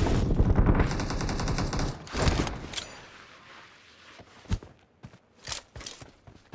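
Video-game automatic gunfire: a fast burst of rapid shots for about two seconds, a short second burst, then scattered single shots that thin out and grow fainter.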